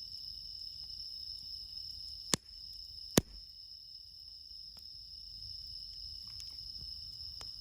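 Bell crickets singing steadily in a high, unbroken trill, with two sharp cracks a little under a second apart, about two to three seconds in.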